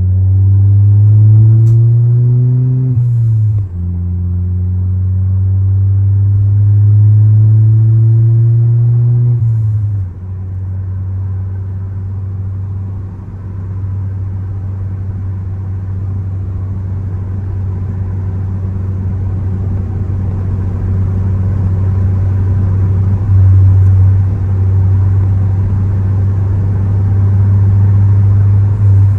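Ford Focus ST's turbocharged engine pulling hard through the gears: its pitch climbs, drops sharply at a gear change about three and a half seconds in, and climbs again. About ten seconds in it eases off into a steady low drone at cruise.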